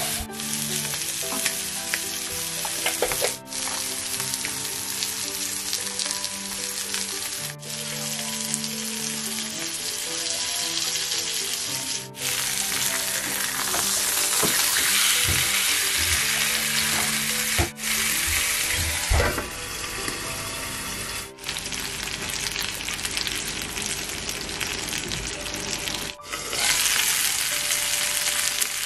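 Chicken thighs frying in oil in a nonstick frying pan: a steady sizzle that breaks off for an instant several times. Soft background music plays under it.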